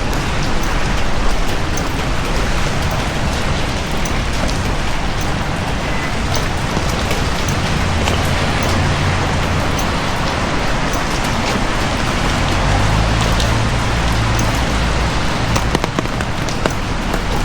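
Heavy rain falling steadily in a dense, even hiss with scattered drop ticks. A low rumble swells under it twice, about eight seconds in and again around thirteen seconds.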